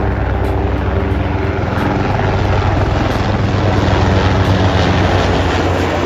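Loud, steady mechanical drone with a fast low pulsing beat under a broad rushing haze, like an aircraft engine or rotor.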